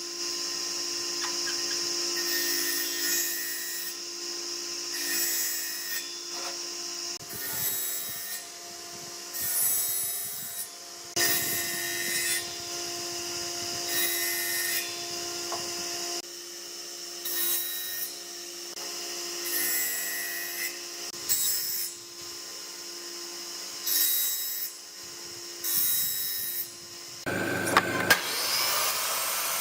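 A power tool motor running steadily while it works wood in repeated strokes, each pass a short rasping burst, with a change in the cutting sound near the end.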